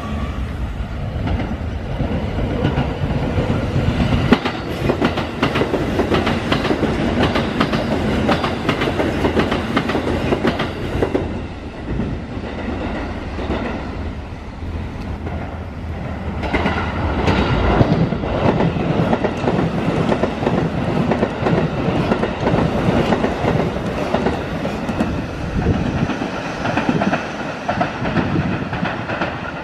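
Sanyo Electric Railway train passing close by, its wheels clacking over the rail joints in a quick rhythm. The rail noise eases off about halfway through, then swells again before fading near the end.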